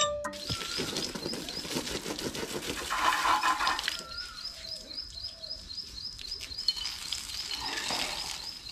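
Outdoor birdsong: a bird repeating a short high chirp about three times a second, with a lower whistled call now and then. A brief rush of hiss comes about three seconds in.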